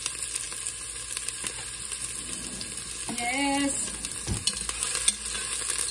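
Chopped onion sizzling in hot oil in a cast-iron pan over high heat, a steady hiss with a few light clicks.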